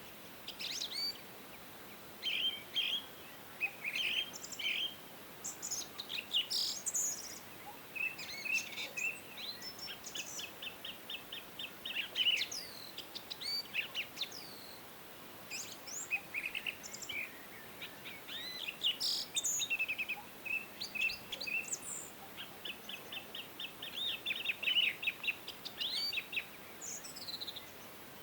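Several songbirds singing and chirping at once: short chirps, fast trills and quick runs of notes, over a faint steady background hiss.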